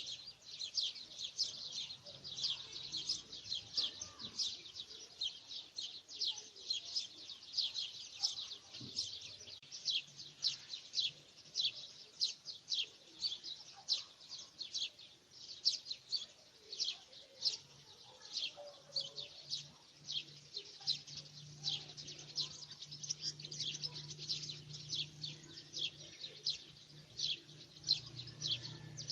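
A small bird chirping over and over, short high notes about two a second without pause. A low steady hum joins in about two-thirds of the way through.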